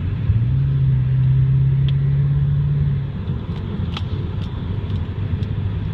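Engine of a 2001 Ford F-250 heard inside its sound-deadened cab as the truck accelerates from 45 toward 55 mph: a low engine drone climbs a little in pitch for about three seconds, then eases off, leaving a steady road and tyre rumble.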